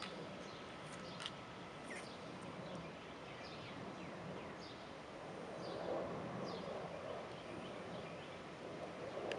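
Outdoor ambience of birds calling: short, high chirps that slide down in pitch, repeated every second or so over a steady background hiss.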